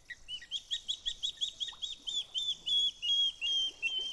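A bird calling a rapid series of about fifteen clear whistled notes. The notes come quickly at first, then stretch out longer and slower toward the end.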